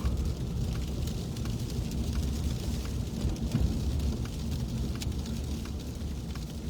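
Inside a moving car's cabin: a steady low rumble of the car on the road, with scattered sharp ticks of sleet hitting the windows.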